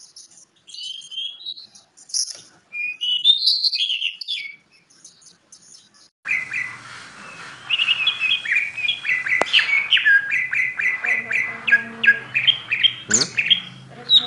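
Oriental magpie-robin (kacer) singing: varied chirps and whistles, then from about six seconds in a faster run of short repeated chirps over a background hiss. There is a sharp click partway through and a quick rising whistle near the end.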